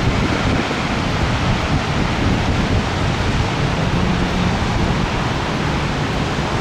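Steady loud rush of heavy rain and gusting wind in a severe thunderstorm, with wind buffeting the microphone.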